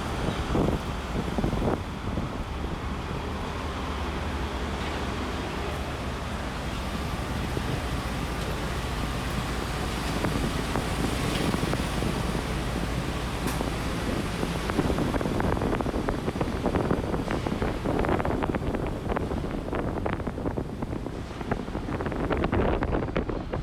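Strong wind buffeting a phone's microphone over a steady low rumble. The buffeting turns gustier and louder in the second half.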